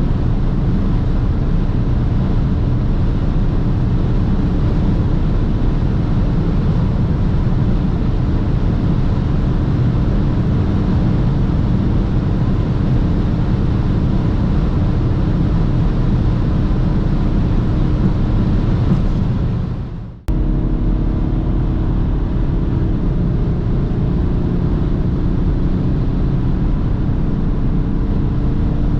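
BMW 330d's straight-six turbodiesel droning at high Autobahn speed over steady wind and tyre roar. About twenty seconds in the sound fades out and cuts straight back in, after which the engine note climbs slowly as the car gathers speed.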